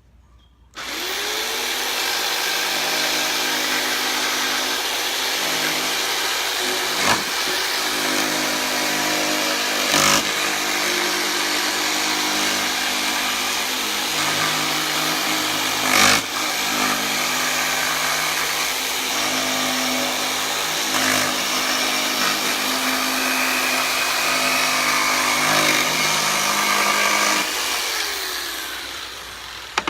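Electric jigsaw starting up about a second in, its motor rising to speed and then running steadily while the blade cuts through a wooden board, with a few sharp knocks along the way. The motor winds down near the end as the trigger is let go.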